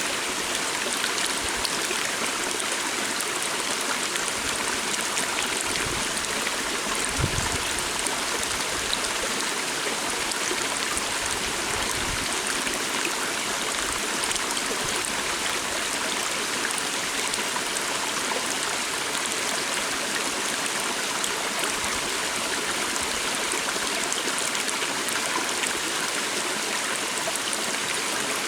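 Calm water stream flowing steadily, an even rushing and trickling. A brief low thump about seven seconds in.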